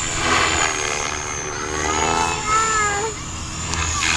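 Electric RC helicopter (Align T-Rex 550E) in flight: the motor and rotor whine rises and falls in pitch as it manoeuvres. Low buffeting from strong wind on the microphone runs underneath.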